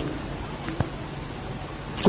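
Steady background hiss of a speech recording with a faint low hum, between spoken phrases; one faint click just under a second in.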